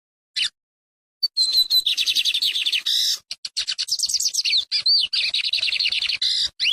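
A seedeater singing: a short single note, then about a second in a long song of fast repeated chirps and trills with a few brief breaks, cut off abruptly at the end.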